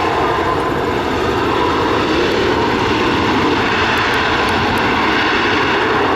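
Loud, steady engine noise from an airliner passing close by as it comes in to land.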